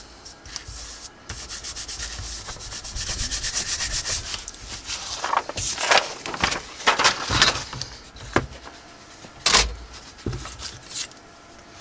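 Paper being rubbed by hand: a quick run of rubbing strokes, then slower, louder separate sweeps.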